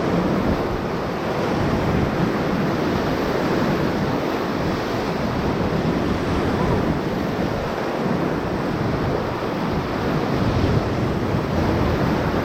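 Whitewater of a river rapid rushing around a raft: a steady, loud wash of moving water, with some wind buffeting the microphone.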